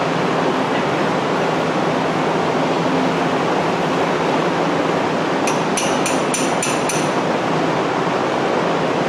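Steady loud rushing noise, like a fan or air mover, with a faint low hum. About five and a half seconds in, a quick run of about five light metallic clinks.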